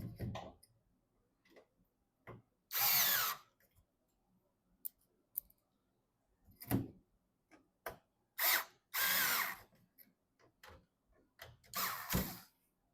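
Small electric screwdriver running in several short bursts, driving screws, with light clicks and knocks of parts being handled between the bursts.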